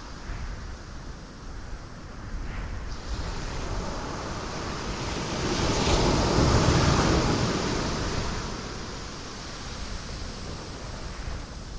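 Ocean waves breaking on rocks, a steady rush of surf with one big wave swelling and crashing about six seconds in, then washing back.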